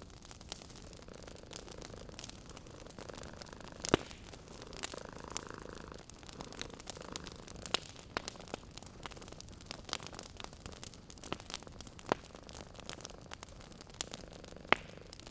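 Wood fire crackling in a fireplace, with irregular sharp pops; two louder snaps come about four seconds in and near the end. Underneath runs a soft, steady cat purr.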